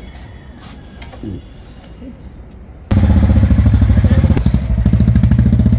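Royal Enfield single-cylinder motorcycle engine starting up about three seconds in, then running loudly at idle with a fast, even pulse.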